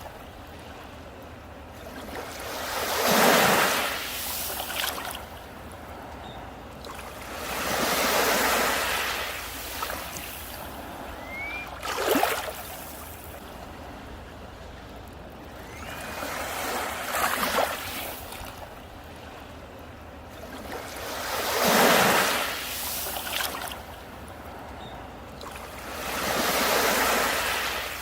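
Sea waves washing onto a beach: six waves in turn, each swelling up and fading away about every five seconds, one with a sharper crash near the middle, over a steady hiss of surf.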